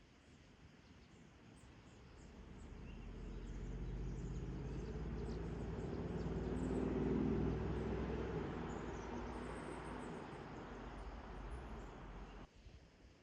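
A motor vehicle passing by: its engine hum swells over a few seconds, peaks about halfway through, fades, and cuts off abruptly near the end.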